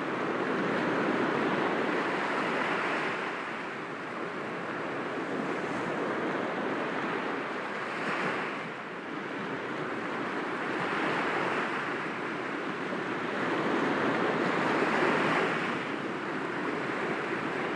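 Sea waves breaking gently against rocks, a continuous wash that swells and recedes every few seconds.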